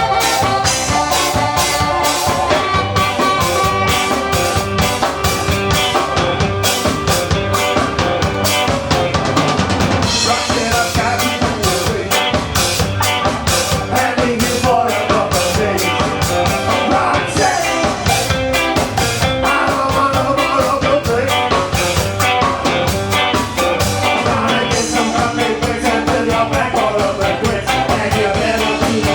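Live ska band playing, with the drum kit keeping a steady, busy beat under brass and other instruments.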